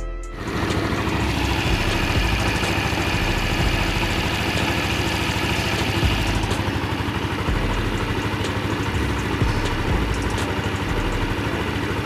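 Empire Outlook (Keeway Logik) scooter's single-cylinder four-stroke engine idling steadily after its repair and first start.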